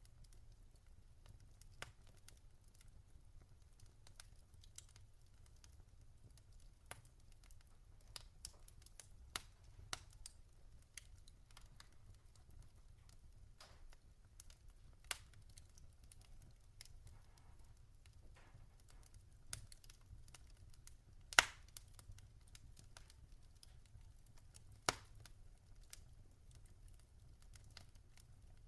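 Wood fire crackling in a fireplace: scattered sharp pops and snaps from the burning logs, one loud pop about two-thirds of the way through and another a few seconds later, over a faint low rumble.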